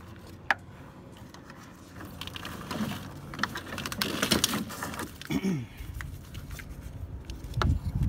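Plastic wiring-harness connectors and wires clicking and rattling as they are worked loose and unplugged by hand, with a sharp click about half a second in and a dense run of clicks and rustling in the middle. A low rumble comes in near the end.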